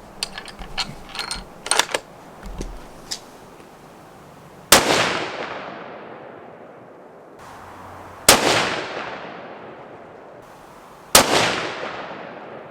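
Three rifle shots, about three and a half then three seconds apart, each followed by a long echoing tail that fades over a couple of seconds. A few light clicks come before the first shot.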